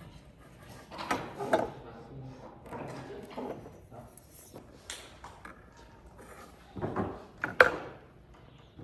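A run of short knocks, clunks and scrapes from objects being handled and set down, in irregular clusters, the loudest knock coming near the end.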